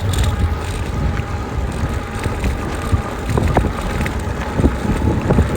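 Wind buffeting the microphone of a moving e-bike, a steady low rumble with tyre and road noise under it, and a few light knocks in the second half.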